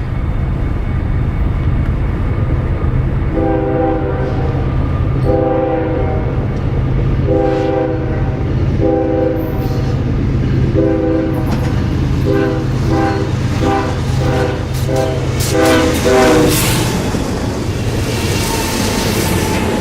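Diesel locomotive air horn sounding a chord in several long blasts, then a quick run of short blasts, over the steady rumble of the locomotive's diesel engine. From about three-quarters of the way through, the train passes close by with a rush of wheel and rail noise and clickety-clack.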